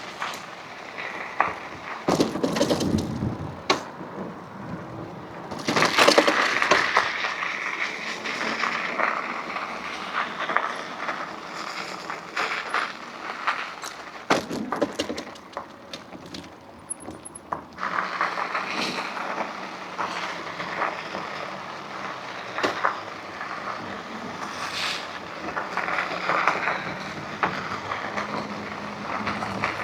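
Riding noise of an electric bike on the road: a rushing hiss that swells and fades, with many clicks and knocks from bumps and rattles. No clear motor whine stands out.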